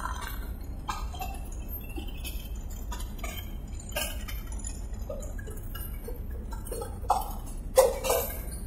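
Moving passenger train heard from an open carriage doorway: a steady low rumble with irregular metallic clinks and clanks of the carriage and wheels on the track, the loudest few near the end.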